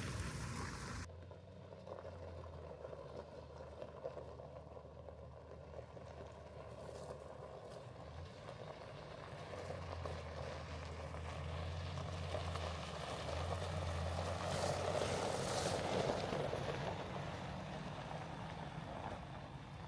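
A vehicle driving: a low steady engine hum that fades and returns, under road noise that swells about fifteen seconds in.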